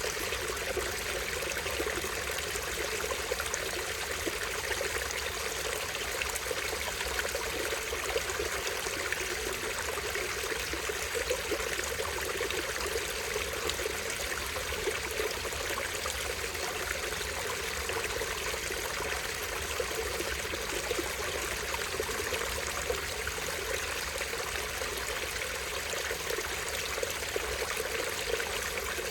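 A small stream running over a tiny waterfall: a steady rush of falling water with a trickling, babbling texture that does not change.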